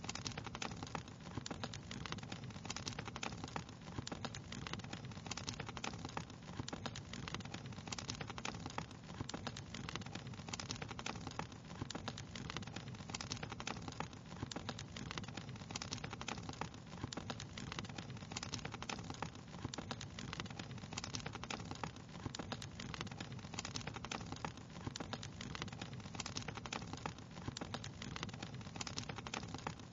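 Fireplace fire crackling continuously, with dense, irregular small pops and snaps over a steady low rush.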